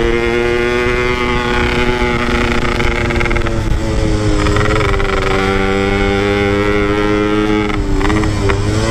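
Motorcycle engine running at a nearly steady speed under engine braking, its pitch stepping slightly a few times and dipping briefly near the end.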